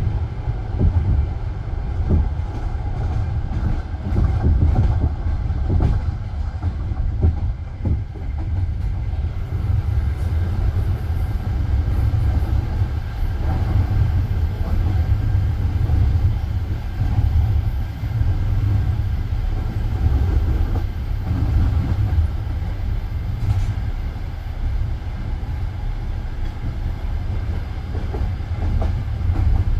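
Passenger train coach running along the line, heard from inside: a steady low rumble of the wheels on the track with scattered clacks of the wheels over the rails.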